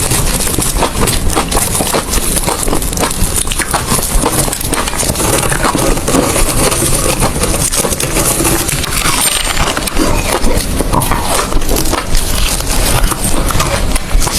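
Ice being chewed close to the microphone: a dense, continuous run of crunching and crackling bites.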